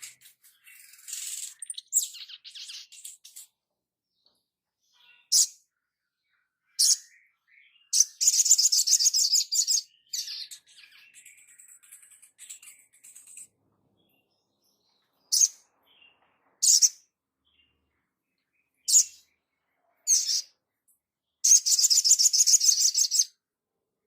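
A songbird calling in high-pitched, rapid trills and short single calls separated by silent gaps. The two longest and loudest trills come about a third of the way in and again near the end.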